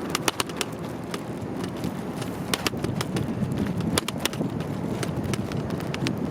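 Steady rumble of a bicycle rolling along, with many irregular sharp clicks and rattles from the bike.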